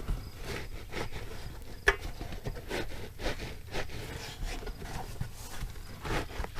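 Scattered knocks, clicks and scrapes of tools and hands working around a tractor tire, with one sharp knock about two seconds in.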